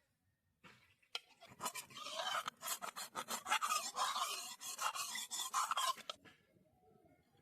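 Harsh rasping scrape: something hard rubbed or scraped repeatedly against a hard surface for about five seconds, starting about a second in and stopping suddenly.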